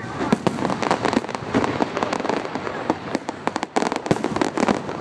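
Fireworks going off: a dense, irregular run of sharp bangs and pops, one after another, with a brief lull a little past halfway.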